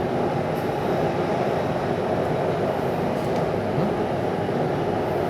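Bangkok MRT metro train running between stations, heard from inside the carriage as a steady, low, even running noise of wheels and motors.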